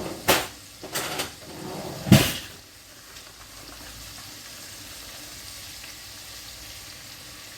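Kitchen utensils clatter three times in the first two seconds or so, the loudest just after two seconds, then chopped onion, carrots and peppers sizzle steadily in olive oil in the cooking pot.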